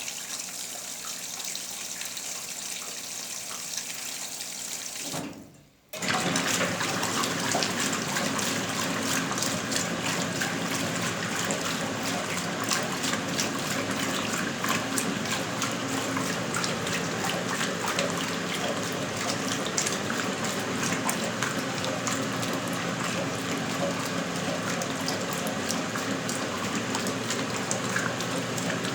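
Water running and splashing inside a 1977 Westinghouse Lavínia washing machine. It cuts out briefly about five seconds in, then returns louder and more crackly.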